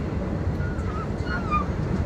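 Passenger train carriage running at speed, heard from inside: a steady low rumble of wheels on rail. A few faint short chirps sound over it about a second in.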